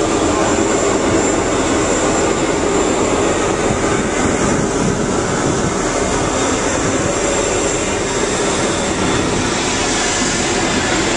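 Jet aircraft engines running: a steady loud rush with a thin high whine on top.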